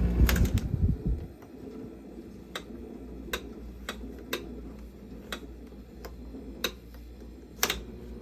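Carrier UC series 8,400 BTU window air conditioner running with a low rumble that cuts off about a second in as the unit is switched off. A quieter hum stays under a string of light, irregular clicks and ticks.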